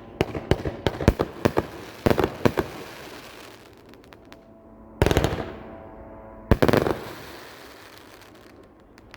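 Hammer and Anvil 500 g, 24-shot firework cake going off. A quick run of sharp cracking reports lasts about two and a half seconds. Two louder booms follow, about a second and a half apart, each fading off, and then a few last pops near the end.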